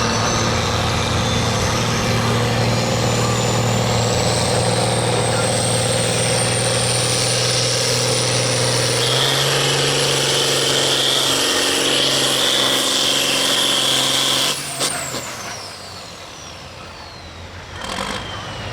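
Turbocharged diesel pulling tractor run at full throttle under load, with a high whine that climbs steadily in pitch. About fourteen seconds in the throttle is cut: the engine sound drops suddenly and the whine winds down.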